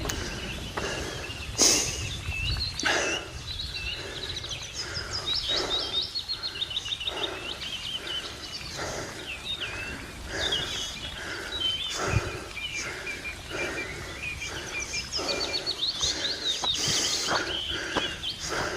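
Small birds singing in rapid chirps and trills, over steady footsteps on a dirt track.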